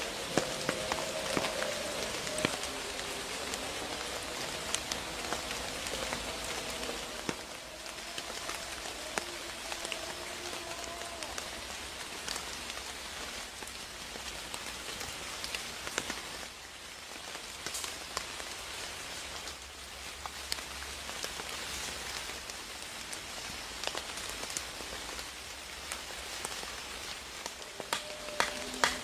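Steady rain falling, a continuous hiss with many scattered sharp drop ticks.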